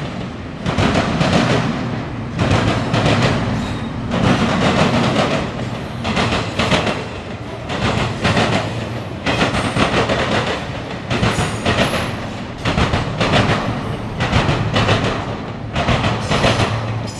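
Norfolk Southern intermodal freight train's cars rolling past, wheels clacking over the rail joints in loud surges that come every second or so.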